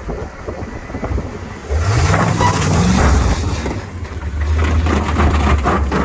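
Chevy K10 pickup's engine revving up hard about two seconds in as the truck climbs onto a car, then holding a steady, loud low drone under load.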